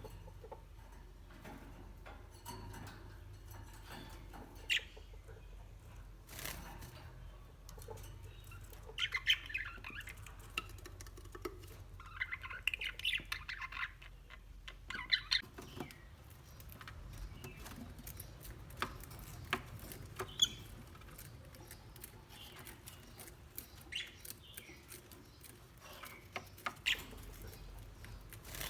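Parrots giving short squawks and chirps now and then, busiest in the middle, among scattered clicks and taps.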